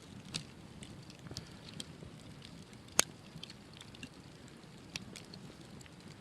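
Wood campfire crackling, with scattered small pops and one sharp crack about three seconds in.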